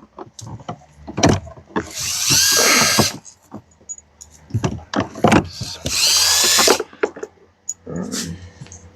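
A handheld power drill whirring in two bursts of about a second each, its pitch wavering, with clinks of metal tools between, as bolts are run out during an engine teardown.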